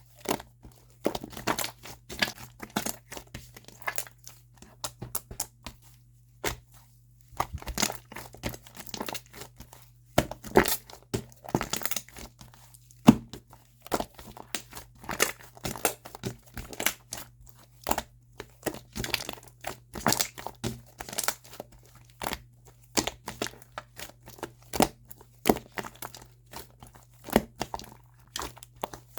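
Hands squishing and stretching a chewy, bubbly shaving-foam slime, making irregular sticky crackles and pops as air bubbles burst.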